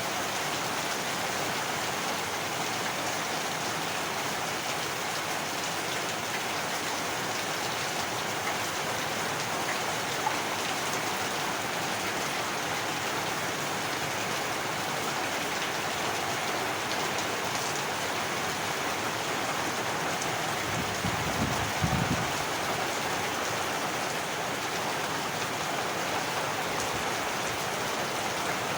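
Heavy rain falling steadily. A small click comes about a third of the way in, and a brief low thump about three quarters of the way through.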